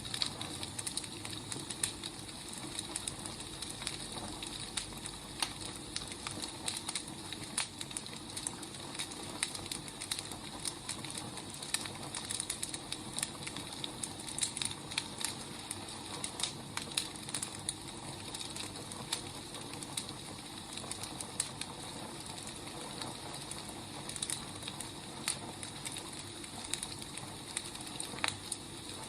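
Wood fire burning, with irregular sharp crackles and pops over a steady soft hiss.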